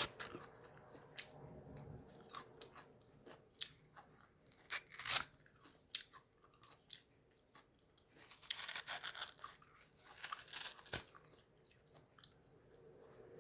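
Close-up biting and chewing of crunchy mango flesh: scattered crisp crunches and mouth clicks, with a denser run of chewing about two-thirds of the way through.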